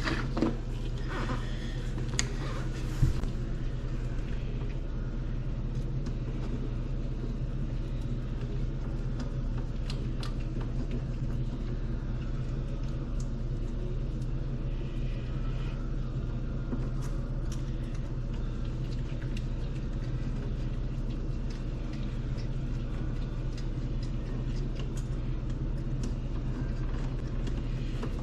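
A steady low mechanical hum with scattered light knocks and clicks.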